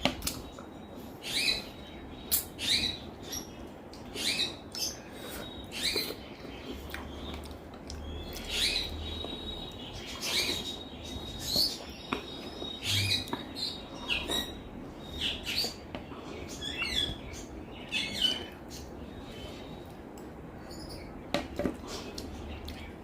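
Close-miked eating mouth sounds: wet lip smacks and tongue clicks in irregular clusters, easing off near the end. A faint steady high tone sits under them for a few seconds in the middle.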